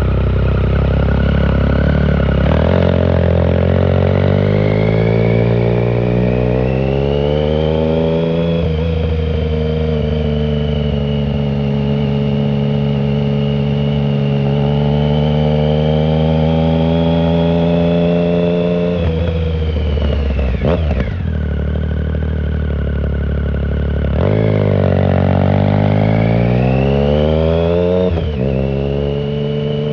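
2009 Triumph Speed Triple 1050's three-cylinder engine running through a shorty Competition Werkes exhaust with no silencer, heard from a phone in the rider's pocket while riding. The revs climb over several seconds and then hold steady. About two-thirds of the way in the revs drop sharply, then pick up again with a rising pull and a brief break near the end, like gear changes.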